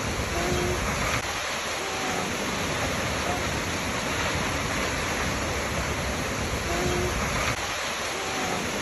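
Waterfall rushing in a steady, dense roar of falling water. A few faint short tones come near the start and again about six seconds later.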